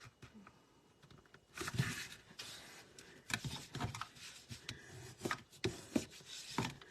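A sheet of cardstock being folded into a card base and rubbed along the crease: a run of papery rustling and scraping strokes with a few sharp taps, starting about a second and a half in.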